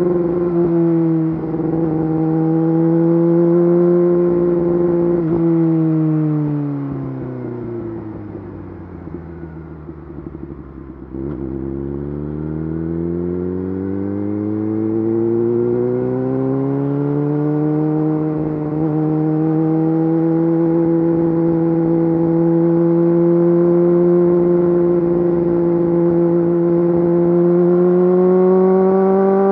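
Yamaha YZF-R6 inline-four sport bike through an Akrapovič full exhaust system, running at steady revs, then dropping steadily in pitch and volume for several seconds as the throttle closes. A sharp click comes about eleven seconds in at the lowest revs, and the engine note then rises smoothly back up and holds steady again.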